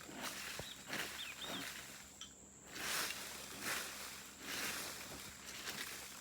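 Open bonfire burning, its noise rising and falling in uneven bursts over a steady high insect trill; a few short bird chirps about a second in.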